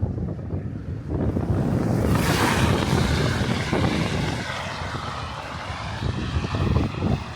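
Strong gusting wind buffeting the microphone in a low rumble, with a louder hissing rush that sweeps in about two seconds in and slowly dies away.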